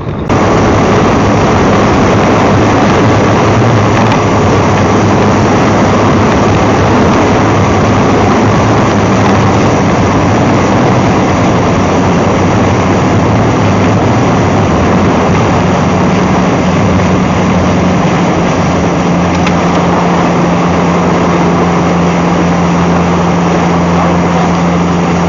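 A motorboat's engine running steadily at speed under a loud rush of wind and water. A little over halfway through, a higher steady engine tone sets in.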